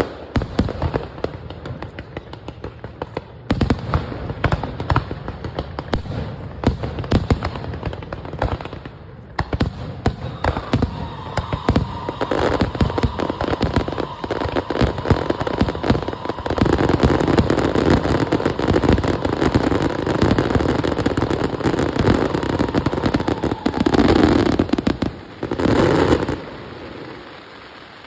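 Fireworks display: a dense, rapid crackle of many small bangs and pops that thickens into a loud continuous barrage and cuts off suddenly near the end.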